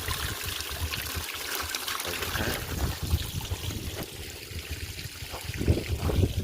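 Water trickling and pouring into a bucket as excess pumped water is caught.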